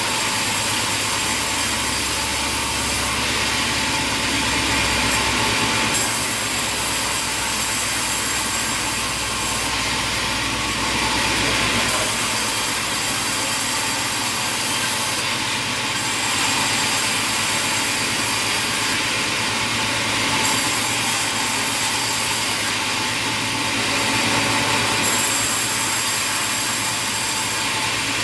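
Sawmill machinery running, with saws cutting timber: a steady, dense noise whose character shifts every few seconds.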